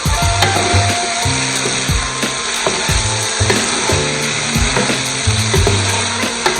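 Chicken sizzling as it dry-roasts in a pan, with a spatula scraping and stirring, over background music with steady bass notes.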